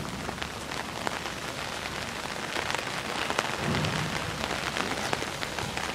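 Hard rain falling on pavement and grass: a steady hiss dense with small drop ticks. A brief low rumble comes about two-thirds of the way through.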